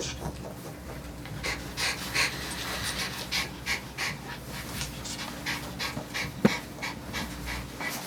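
A dog panting rapidly, about three breaths a second, over a steady low hum. A single sharp click about six and a half seconds in.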